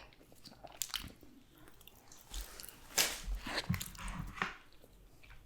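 A person chewing and biting food close to the microphone: wet, squishy mouth sounds with scattered clicks, busiest about three seconds in.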